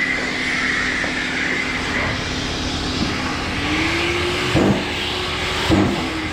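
A power sander and shop machinery running steadily while body filler is sanded level. About halfway through, a motor note rises and holds as a tool speeds up, and there are two knocks about a second apart.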